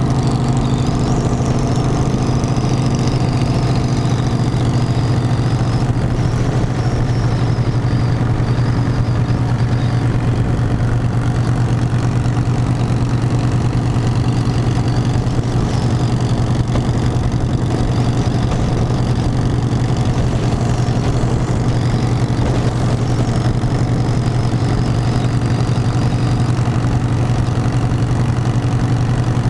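Harley-Davidson motorcycle's V-twin engine running steadily at an even pitch, with no revving.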